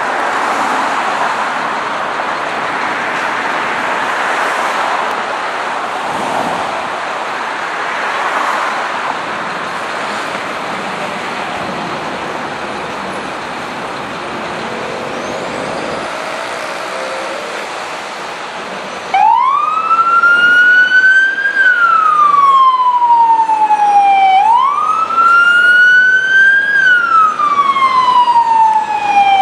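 Street and traffic noise, then about two-thirds of the way in an FDNY battalion vehicle's siren switches on suddenly. It wails, rising and falling in pitch about every five seconds.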